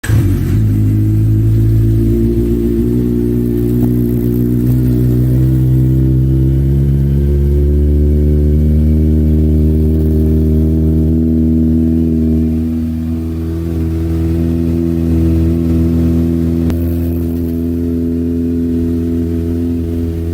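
Kawasaki ZX-25R's 250 cc inline-four engine running through a genuine Akrapovič exhaust, held at a steady speed with a slight dip in loudness a little past the middle.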